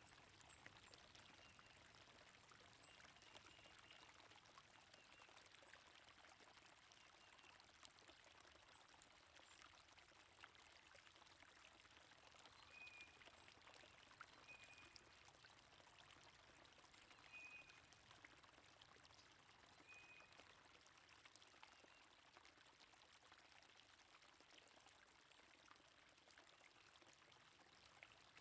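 Faint, steady rush of flowing stream water, with a few short, high bird chirps over it in the middle.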